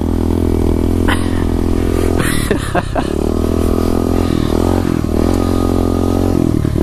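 SSR 125 pit bike's small single-cylinder four-stroke engine running as the bike is ridden, its revs dropping and rising a few times with the throttle.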